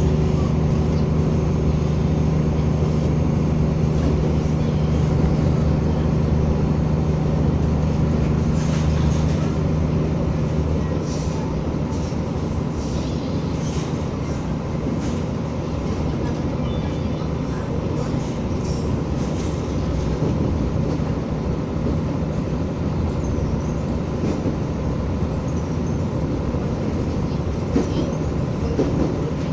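Materfer diesel railcar running along the track: a steady engine drone with rail and wheel noise. The engine note eases off slightly after about ten seconds.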